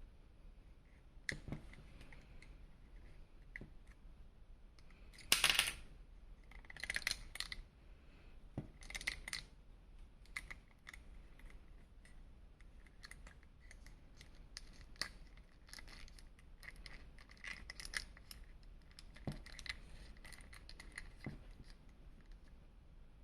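Hands handling a plastic action figure and its packaging: scattered small clicks and taps, with short rustling scrapes, the loudest about five seconds in.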